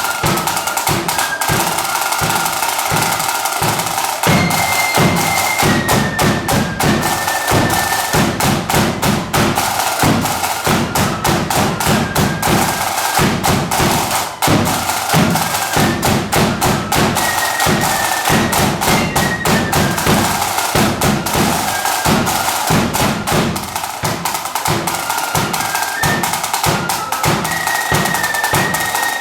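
Marching flute band playing a tune: a high flute melody over rapid, constant snare drumming and bass drum beats.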